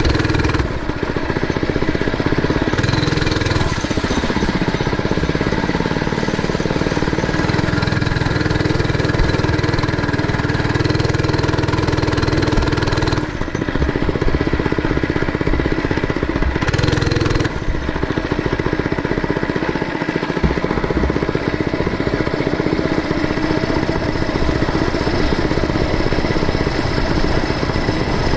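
Mini bike's small engine running as it is ridden, its pitch rising and falling with the throttle, with a few brief drops when the throttle is eased off.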